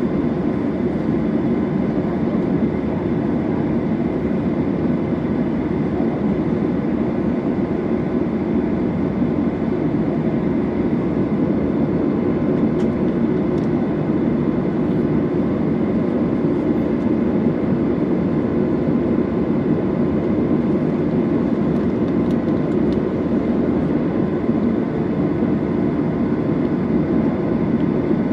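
Steady cabin noise of a Boeing 737-800 on the ground before takeoff, its CFM56-7B engines at low power: an even low rumble with a faint steady whine over it.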